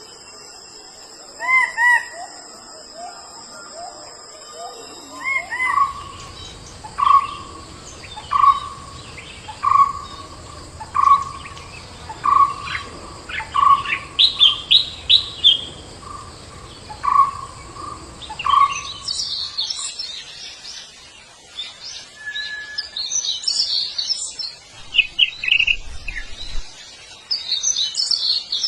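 Birds calling: a short call repeated about every second and a half for a while, then quicker, higher-pitched chirping from about two-thirds of the way in.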